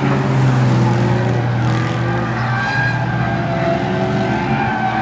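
A drifting car's engine revving up and down on the track, its pitch rising and falling, over a steady low engine hum.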